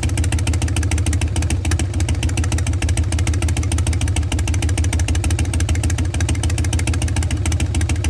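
A 2014 Harley-Davidson FXSB Breakout's Twin Cam V-twin idles steadily through a Bassani Pro Street Turnout exhaust, with the loping three-beat 'potato' idle rhythm.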